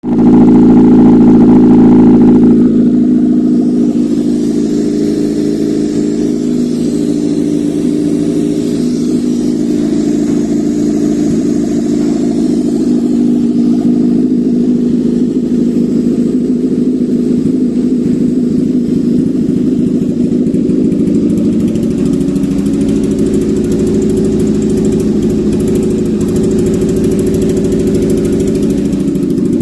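Daihatsu HC-EJ 1.3-litre four-cylinder engine running on a test stand. It runs louder for the first two seconds or so, then settles to a steady idle, with a slight change in pitch about twenty-two seconds in.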